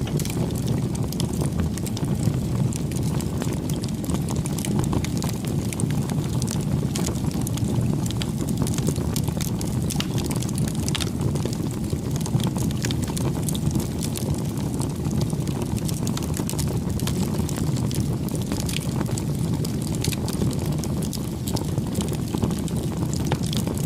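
Open wood fire burning: a steady low rush of flames with frequent, irregular crackles and pops.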